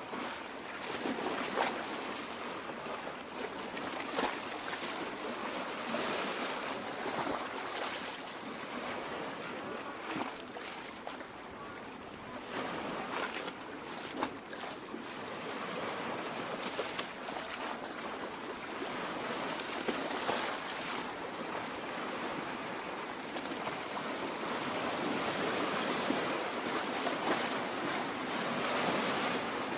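Small lake waves lapping at the shore: a steady wash of water with brief splashes scattered through it.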